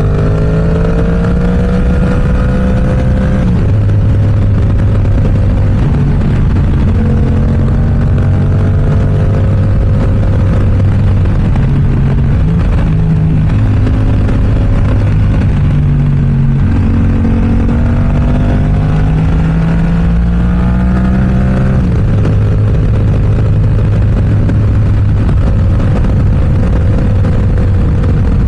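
Yamaha R7 motorcycle with an M4 aftermarket exhaust under way, its engine note rising under acceleration and dropping back several times as the rider works the throttle and gears, over steady wind rush.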